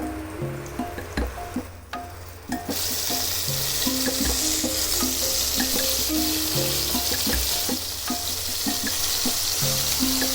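Marinated chicken leg pieces frying in hot oil in a pan: a steady sizzle sets in about three seconds in and holds on, over soft plucked background music.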